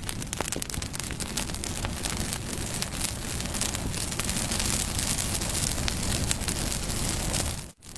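Wood fire burning, a steady hiss with many small crackles and pops throughout. The sound drops out for an instant near the end.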